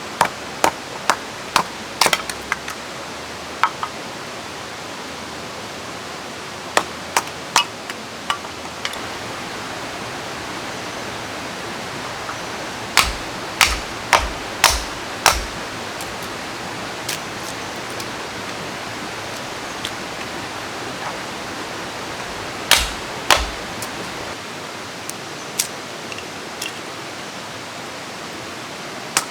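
Steady rushing of rain and a flowing river, with scattered sharp clicks and knocks throughout, bunched in two quick runs of four or five, about halfway through and again later.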